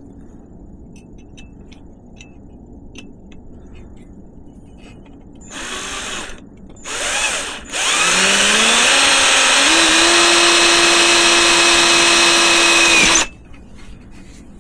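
Power drill boring a hole into a metal bicycle frame tube: two short bursts, then a longer run of about five seconds whose pitch rises and then holds steady before it stops abruptly.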